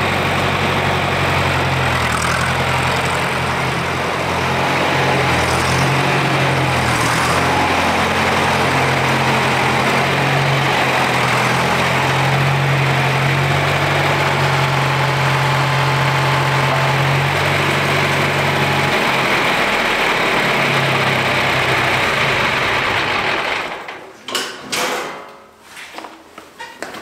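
John Deere 2510 tractor engine running steadily, its low drone easing off about three-quarters of the way through, then shut off suddenly near the end. A few short knocks follow.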